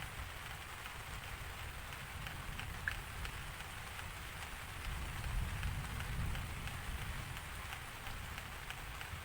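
Steady rain falling, with individual drops ticking here and there. A low rumble swells for a second or two about five seconds in.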